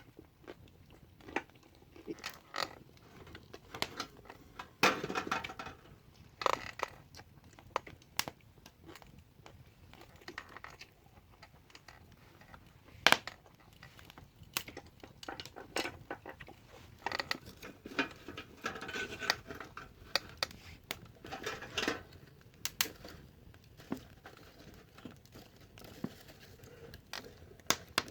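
Someone eating: scattered light clicks and clatter of utensils against dishes, with rustling and chewing.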